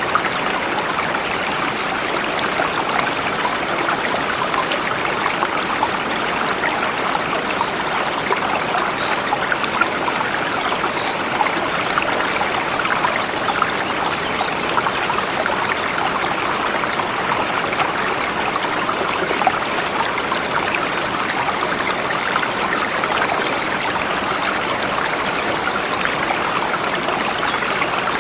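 A forest river flowing steadily over rocks: a dense, unbroken rush of water with fine splashing and trickling.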